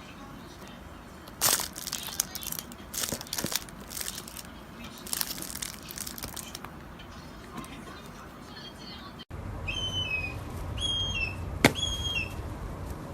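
Lovebirds: irregular fluttering and rustling bursts, then, after an abrupt cut about nine seconds in, a run of short high chirps that fall in pitch, with one sharp click among them.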